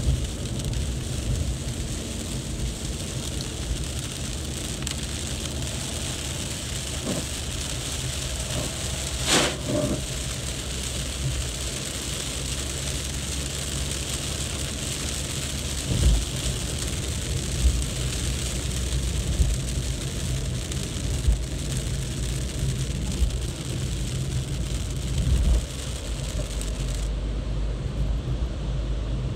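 Heavy rain hissing steadily on a wet road, with passing cars and a low rumble underneath; a few brief louder swells stand out.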